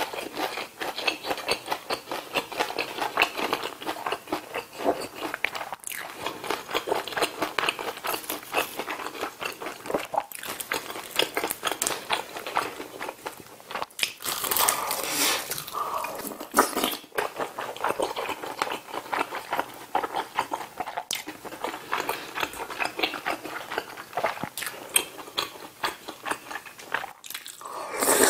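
Close-miked eating: wet chewing with a dense run of small mouth clicks, louder for a stretch about halfway through, and a loud slurp of ramen noodles starting right at the end.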